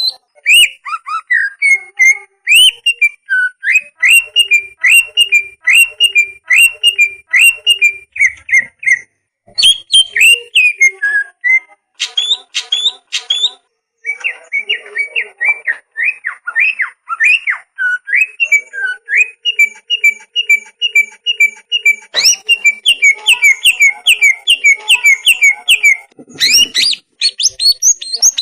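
Cucak ijo (green leafbird) singing: loud, fast runs of whistled notes repeated many times a second, in long phrases broken by short pauses, with some higher, sharper notes mixed in.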